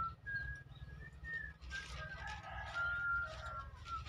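A bird singing a series of long, clear whistled notes that step up and down in pitch, over a low steady rumble.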